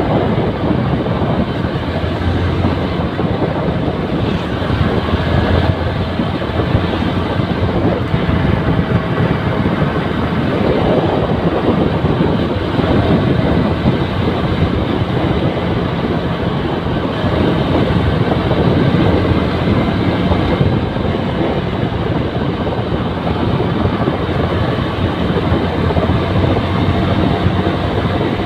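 Yamaha New Megapro motorcycle's single-cylinder four-stroke engine running steadily under way, over a constant rush of road noise.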